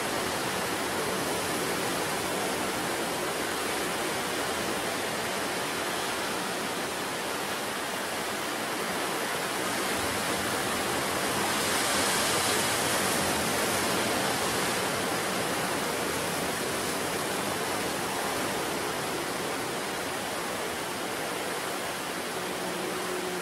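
Sea surf breaking on the shore, a continuous rush of waves with one surge swelling about halfway through.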